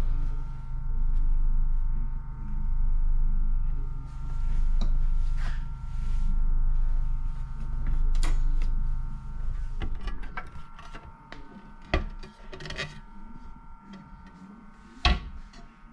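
Train carriage running: a low rumble that swells and fades about every two seconds, over a steady whine, dies away about two-thirds in. After that come a few sharp knocks, the loudest near the end.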